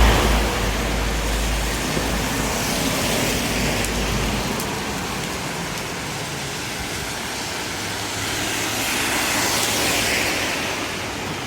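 Steady hiss of rain and wet road noise on a city street, with a vehicle passing at the start, its low rumble fading out about four seconds in, and another swell of hiss near the end.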